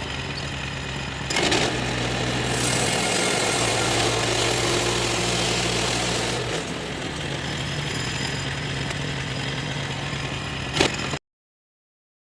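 Sawmill engine running steadily. For a few seconds in the middle a louder rush of noise joins it as the blade cuts through birch wood. A single sharp click comes near the end.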